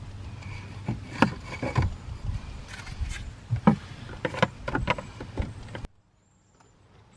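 Hard plastic clicks and knocks as a cabin air filter and its snap-in cover are pushed back into place behind a car's glove box, over a steady low hum. The sound cuts off abruptly about six seconds in.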